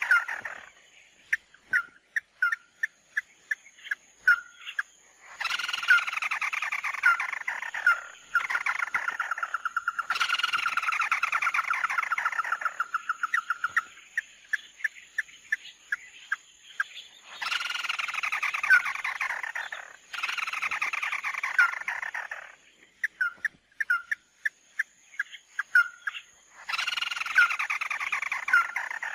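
Recorded calls of the bird Vietnamese trappers call mắt đỏ, played as a looped lure: long runs of rapid notes sliding down in pitch, each about two to three seconds, alternating with series of short sharp call notes.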